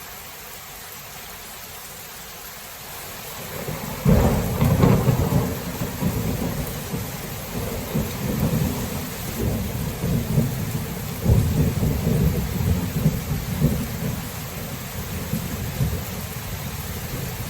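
Thunderstorm: steady rain falling, then about four seconds in a sharp thunderclap breaks and rolls into a long, pulsing low rumble of thunder over the rain.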